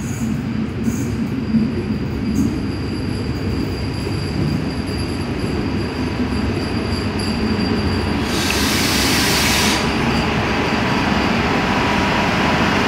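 Diesel railcar train approaching and running in alongside a station platform: a steady low rumble of engine and wheels that grows slightly louder, with a faint high steady squeal. About eight seconds in, a burst of hiss lasts about a second and a half.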